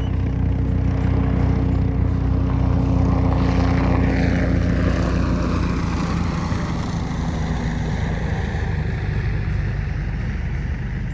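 A steady, loud engine drone, its pitch sweeping downward about four seconds in.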